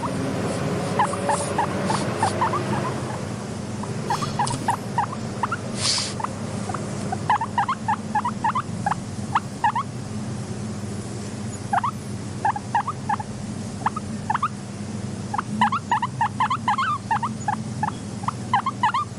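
Guinea pigs squeaking: runs of short, quick squeaks coming in bursts of a few seconds, over a steady low hum.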